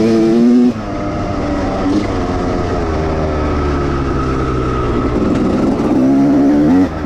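1989 Honda CR250R's two-stroke single-cylinder engine revving: the pitch climbs and cuts off under a second in, runs lower and uneven for several seconds, then climbs again near the end before dropping off.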